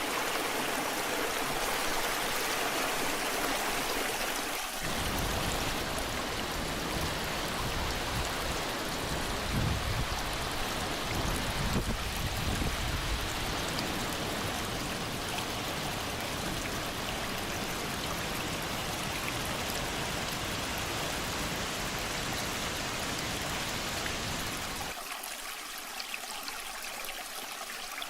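Waterfall water rushing steadily. A deeper rumble joins in about five seconds in and drops away near the end.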